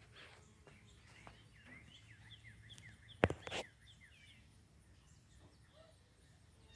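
Small songbirds chirping and twittering in quick short notes, fading out after about four seconds. A sharp click about three seconds in, followed by a smaller one, is the loudest sound.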